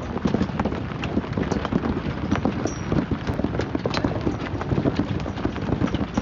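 Hailstones falling hard, a dense, irregular clatter of many sharp impacts.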